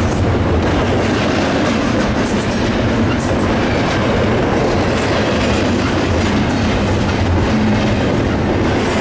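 BNSF double-stack intermodal freight train rolling past close by: a loud, steady noise of the cars' steel wheels running on the rails.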